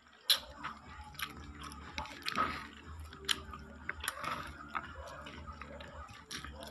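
A person chewing and smacking while eating bone-in chicken with their hands, with sharp wet mouth clicks about once a second over a low steady hum.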